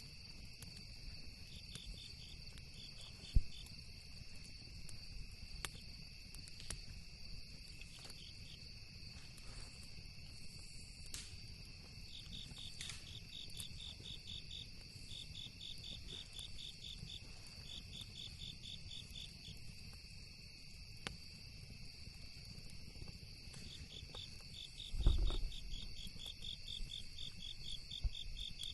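Crickets and other insects trilling steadily, with trains of rapid pulsed chirps coming and going, over a low rumble. Scattered small crackles and pops from a campfire come through, with a sharp pop about three seconds in and a low thump near the end.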